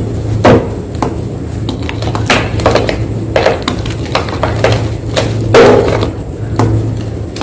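Fresh white gym chalk crunching: a run of sharp crunches at uneven intervals, roughly one a second, over a steady low hum.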